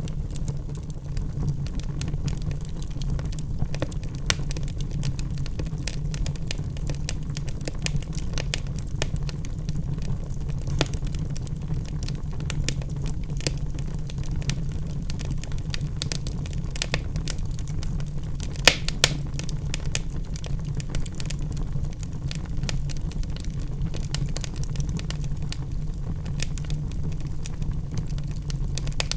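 Wood logs burning in a fireplace: a steady low rumble of flames with frequent sharp crackles and pops, two louder pops close together about two-thirds of the way through.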